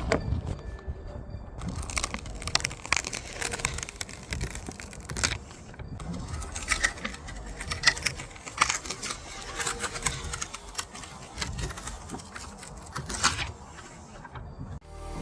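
Irregular clattering, scraping and crinkling from hands-on repair work.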